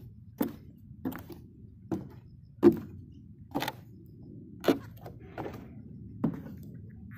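Footsteps in 16 cm (6-inch) high heels, about eight slow, unevenly spaced heel strikes with a wooden clack, the loudest near the middle.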